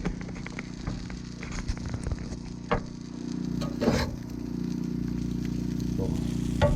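Crawfish and shrimp etouffee cooking in the pot, sizzling and crackling with scattered small pops over a steady low hum.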